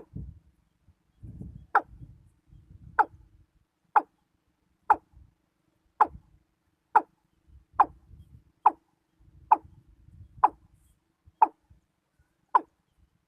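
Watercock giving single sharp 'kok' notes, about one a second in a steady series, the call used to lure other watercocks to the trap.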